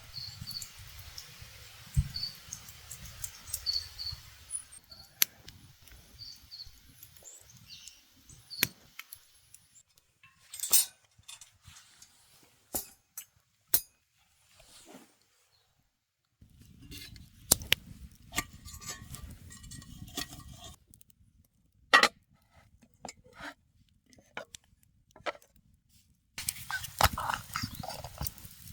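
Scattered clicks, clinks and knocks, like camp gear being handled, with the background changing abruptly several times.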